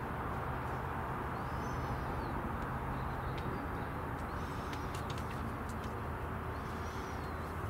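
Steady low background noise with a small bird's short, arched high calls three or four times, about every two seconds, and a few faint clicks.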